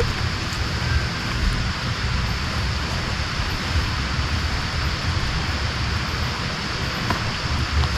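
Heavy rain falling in a steady hiss, with a low, unsteady rumble of wind on the microphone.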